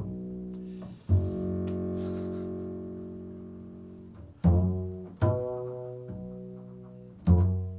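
Guitar played slowly with no voice over it: about five low plucked notes, each left to ring and slowly fade.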